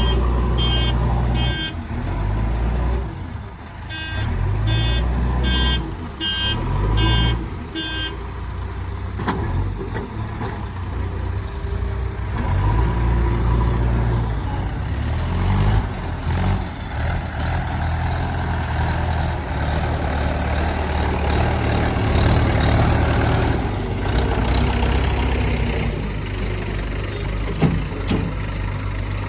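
Diesel engine of a JCB backhoe loader running, its level rising and falling. A reversing alarm beeps about twice a second through the first eight seconds, pausing briefly near the start. Scattered knocks and rattles follow in the second half.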